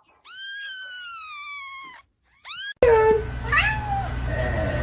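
A cat meowing: one long, drawn-out meow that slowly falls in pitch, then a short rising meow. About three seconds in, the sound switches abruptly to a louder, noisier recording with a steady low hum and short, high, rising cat cries.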